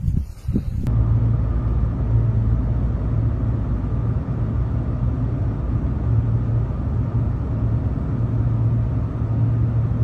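Steady low rumble of a motor vehicle running, with an even low hum. It starts at an abrupt cut about a second in.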